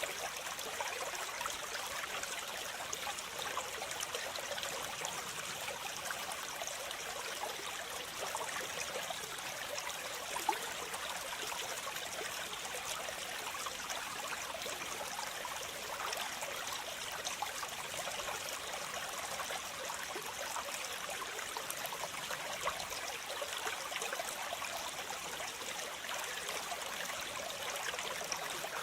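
Waterfall: a steady rush of falling and splashing water, mostly hiss with little deep rumble.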